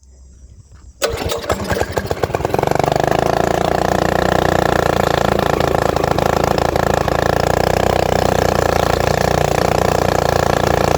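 Mini bike's small engine starting about a second in, sputtering briefly as it catches, then running steadily.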